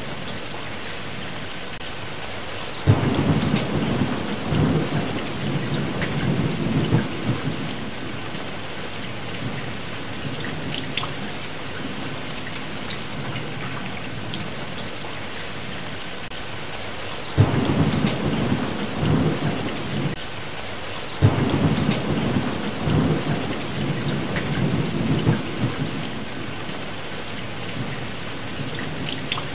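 Steady rain with three rolls of thunder. The first comes about three seconds in and lasts several seconds; the second and third follow close together in the second half. Each begins with a sudden crack and then rumbles low.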